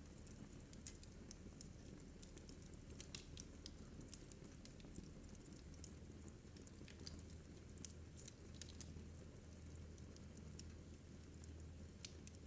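Wood fire in a fireplace crackling faintly: small sharp pops at irregular moments, a few each second, over a low steady hum.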